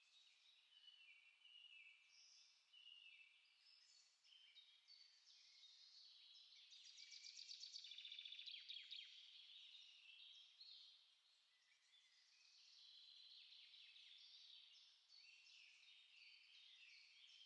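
Several small songbirds singing and chirping at once, their short high phrases overlapping, with a rapid trill about seven seconds in that is the loudest part.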